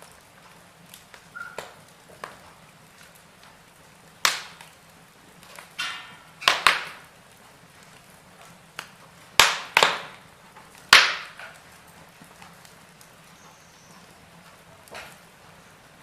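Wood fire in a fireplace crackling: irregular sharp pops and snaps, the loudest about 4, 6½, 9½ and 11 seconds in, over a faint steady hiss.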